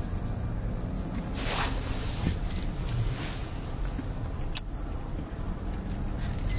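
Patrol car running at low speed, a steady low rumble with swells of road and wind hiss, one sharp click in the middle and two short high electronic beeps.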